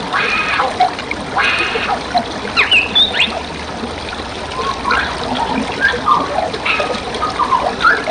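Songbirds calling over a steady trickle of flowing forest water: two harsh, raspy calls in the first two seconds, then a string of short whistled and gliding notes.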